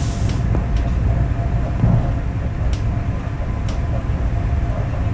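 The inside of a moving passenger train carriage: a steady low rumble of the train running on the rails, with a faint steady tone and a few light clicks.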